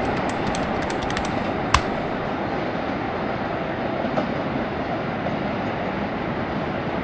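Trains running through a busy rail yard over a steady urban rumble, with a cluster of light wheel clicks over rail joints and points in the first two seconds and a sharp click just before two seconds in.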